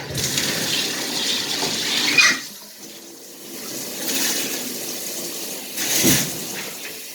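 Shower running, water spraying and splashing down; it is loudest for the first two seconds, drops briefly, then builds again.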